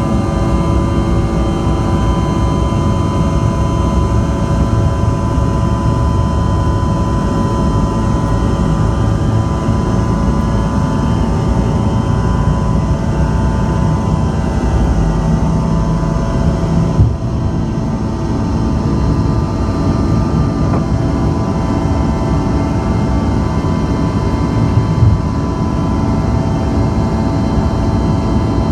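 Cabin noise of a Bombardier CRJ-200ER: the steady drone of its rear-mounted GE CF34 turbofans, with several steady tones over a low rush. A single short knock comes about 17 seconds in.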